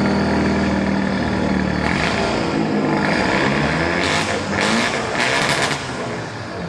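A modified car's engine revving, with several short hissy bursts between about four and six seconds in.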